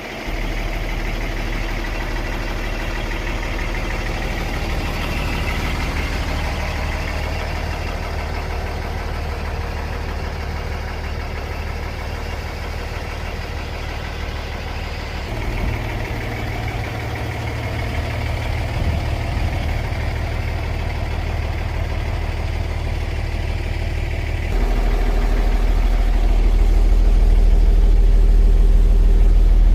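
Mercedes-Benz 1217 truck's diesel engine running steadily at idle. The note shifts about halfway through and gets louder and deeper about 25 seconds in.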